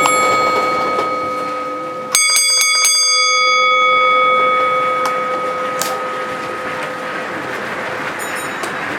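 Signal-box block bell struck in a quick group of strokes, each one ringing on with a clear sustained tone, as a bell code is passed between operators working the layout. Fainter, higher strikes of another bell answer near the end.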